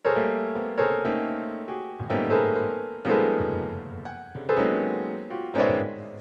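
Slow, sad piano music: chords struck about once a second, each ringing and fading away.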